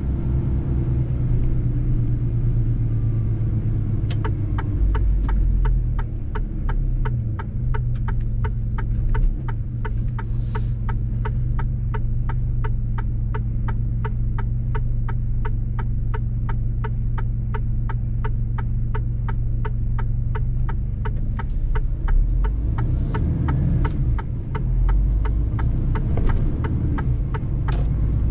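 Mercedes-Benz truck engine droning steadily while driving. From about four seconds in until about three quarters of the way through, a fast, even ticking of roughly three clicks a second runs over it.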